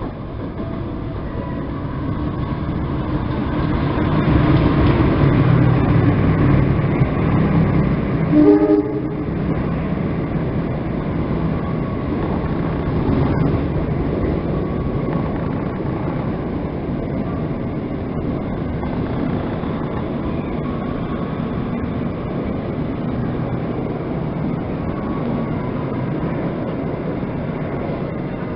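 A passenger train running straight through the station without stopping: the rolling and engine noise builds over the first few seconds, a short horn sounds about eight seconds in, then the carriages keep rumbling past steadily.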